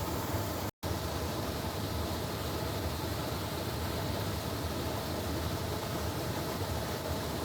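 A steady rushing noise over a low hum, broken by a brief dead-silent gap under a second in.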